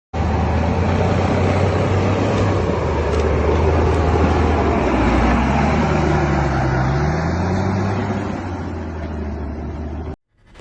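A motor vehicle's engine running steadily, its pitch climbing partway through, then cut off abruptly near the end.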